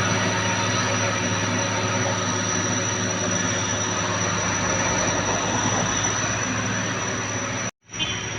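Heavy truck's diesel engine running steadily under load with a constant high whine over it. Near the end it cuts off abruptly for a moment, then resumes a little quieter.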